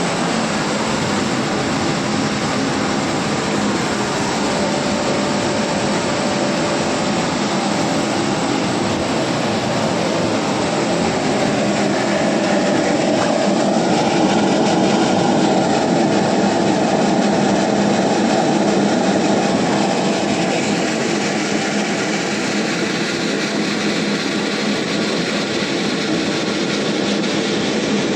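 Soya chunk processing-line machinery running steadily: a dense mechanical noise with a constant hum, a little louder in the middle.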